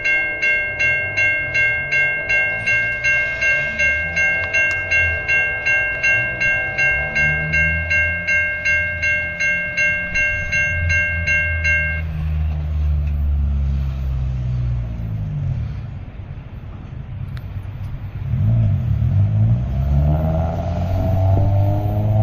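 Railroad grade-crossing warning bell ringing about twice a second, stopping about twelve seconds in, while the low rumble of an approaching diesel freight train grows. Near the end a locomotive horn sounds.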